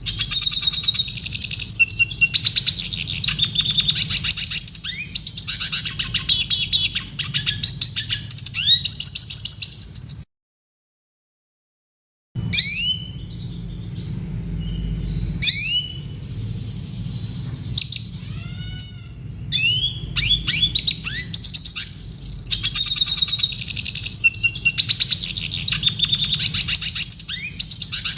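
Red siskin singing a fast, twittering song of high chirps and buzzy trills. A third of the way in it cuts off to complete silence for about two seconds. After the gap come separate rising call notes, then the full song returns.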